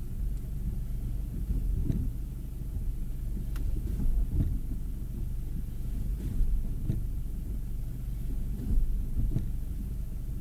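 2012 Acura TSX on the move: a steady low road rumble with several dull knocks at uneven intervals. The knocks are of the kind of noise from the rear that the owner reports under hard braking.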